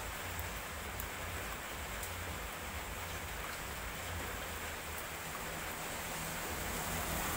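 Steady hiss of rain with scattered faint drips over a low rumble. Near the end a vehicle approaching on the wet road starts to grow louder.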